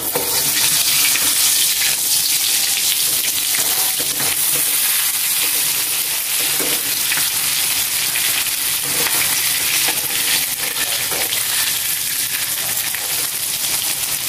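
Egg-dipped eggplant sizzling and crackling steadily in hot oil in a wok, the oil frothing from the egg coating. A spatula scrapes and turns the pieces a few times.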